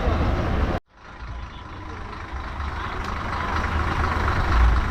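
Steady rumble and hiss of outdoor background noise, broken by a sudden drop to near silence just under a second in, after which the noise builds back up.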